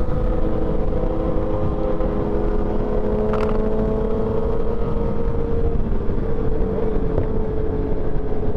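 Motorcycle engine running at a steady cruising speed: an even, held engine note with only slight drifts in pitch, over a constant low rumble.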